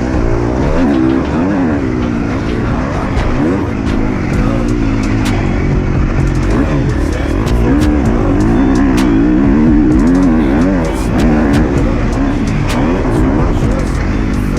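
KTM 250 SX-F four-stroke single-cylinder motocross engine under hard riding, its pitch rising and falling again and again as the throttle is opened and shut. Sharp clicks and knocks are scattered over it.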